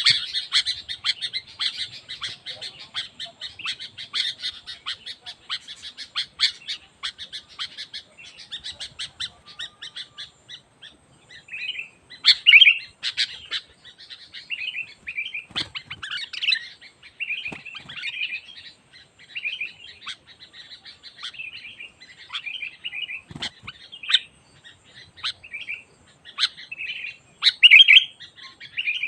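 Sooty-headed bulbuls singing loudly and without pause: a dense, rapid chatter of chirps for the first ten seconds or so, then short separate phrases repeated about once a second.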